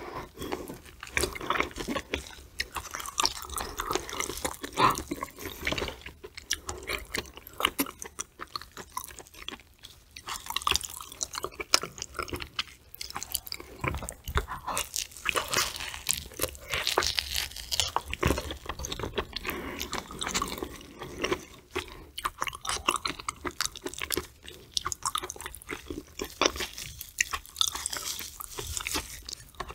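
Close-miked chewing, biting and wet mouth sounds of someone eating raw fatty tuna belly sashimi dipped in sauce, a dense run of sticky smacks and small crackling clicks throughout.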